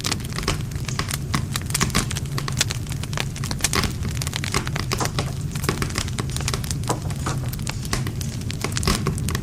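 Wood fire crackling and popping: dense, irregular snaps of burning wood over a low steady rumble of flame.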